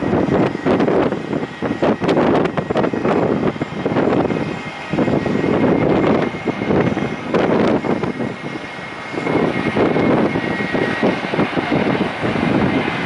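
Strong gusty wind buffeting the microphone in irregular surges, over an aircraft engine's steady high whine.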